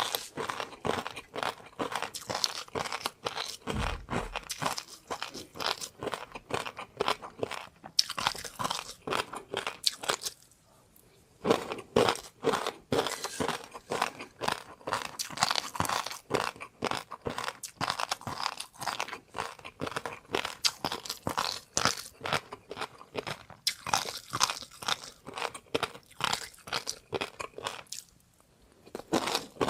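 Close-miked eating: a person chewing and crunching food in quick, steady crunches, pausing briefly twice.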